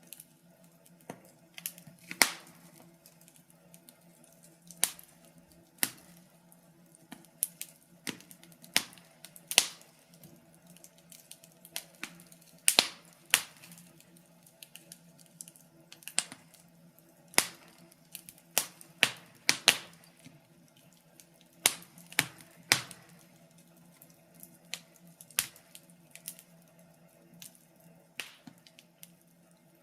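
Wood fire crackling in a fireplace: irregular sharp pops and snaps at uneven gaps, over a faint steady low hum.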